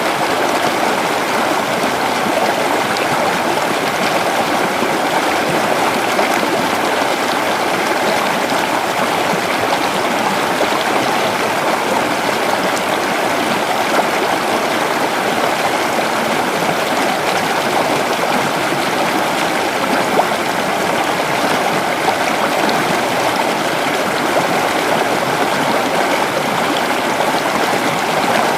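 Creek water flowing and babbling over rocks in a steady rush.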